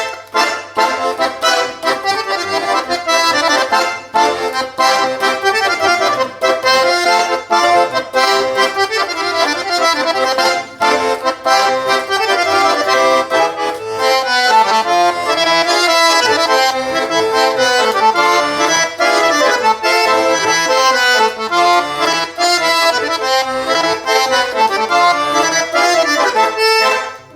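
Russian garmon (button accordion) played solo: a lively quadrille dance tune that stops abruptly near the end.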